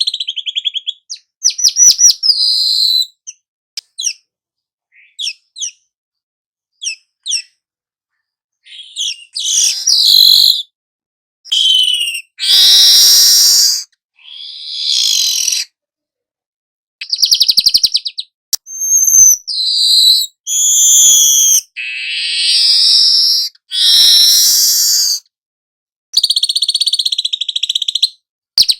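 Young manyar weaver bird singing a long, varied series of phrases: rapid high trills, short whistled sweeps and harsh chattering bursts, broken by short silent gaps. The singing answers lure recordings of other birds' calls.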